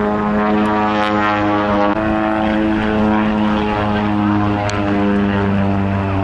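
Aircraft engine droning steadily, a loud hum with a strong even tone that shifts slightly in pitch a couple of times.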